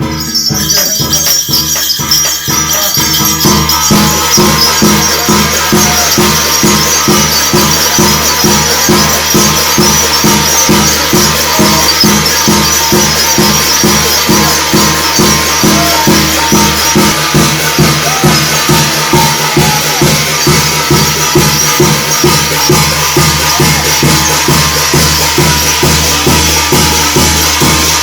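Korean shamanic ritual (gut) percussion: a fast, steady drum beat under a continuous shimmer of cymbals and jingling shaman's bells. It builds up over the first couple of seconds, then holds steady.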